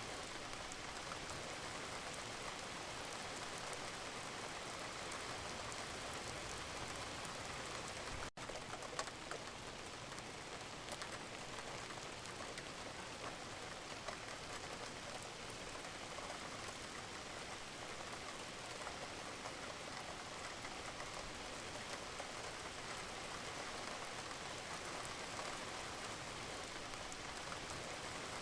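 Steady rain falling: an even hiss of drops with scattered, sharper drop ticks. The sound drops out for a moment about eight seconds in, then carries on.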